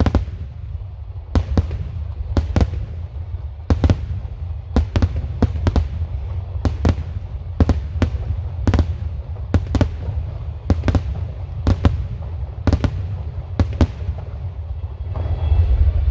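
Aerial firework shells of a wide starmine display bursting in rapid succession: about twenty sharp bangs, irregularly spaced, over a steady low rumble.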